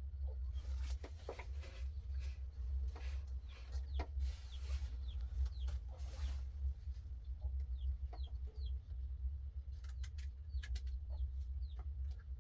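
Chickens clucking, with short high falling peeps scattered throughout, over a steady low rumble.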